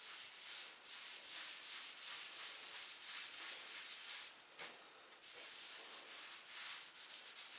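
Wood putty being scraped and smoothed over filled holes in a wooden tabletop: a run of scraping strokes with a brief pause about four and a half seconds in.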